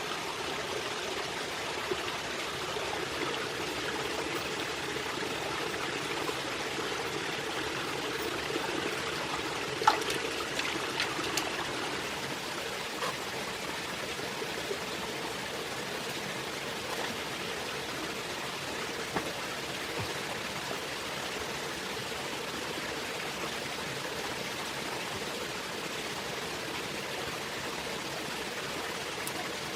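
Steady rushing of a flowing stream, with one sharp click about ten seconds in.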